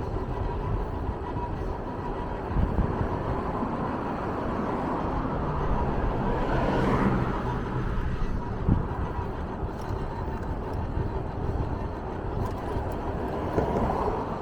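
Steady vehicle running noise with a faint steady whine, and a louder pitched sound that swells and fades about halfway through.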